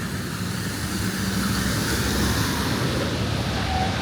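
City street traffic: passing vehicles' engines and tyres in a steady rumble.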